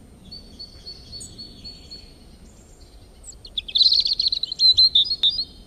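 Birds singing: a string of evenly repeated high notes, about three a second, then from about three seconds in a louder run of quick chirps and trills, over a faint steady low hiss.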